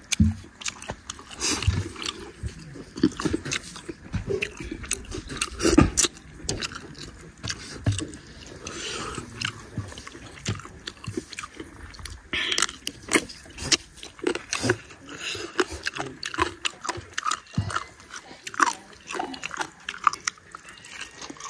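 A person chewing and smacking on rice and chicken curry eaten by hand, with irregular wet mouth clicks and smacks.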